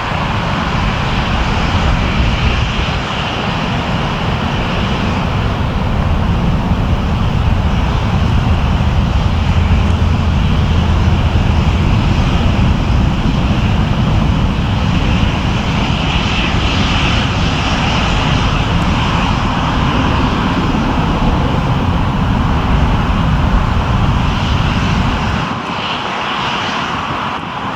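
Airliner engines close by: a loud, steady rumble with a broad hiss over it, swelling about a third of the way through; the deep rumble falls away near the end.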